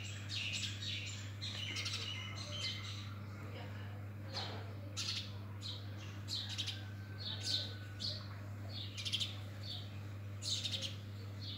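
Small birds chirping and twittering, many short high chirps coming in quick clusters, over a steady low hum.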